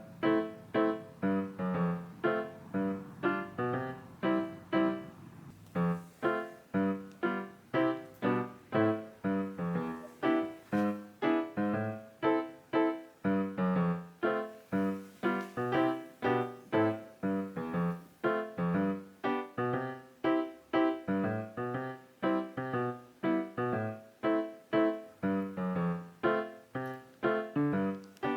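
Background piano music: a steady run of struck notes, about two a second, each fading before the next.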